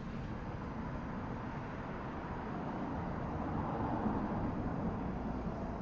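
Wind blowing across the microphone, a steady rushing noise that swells a little about four seconds in.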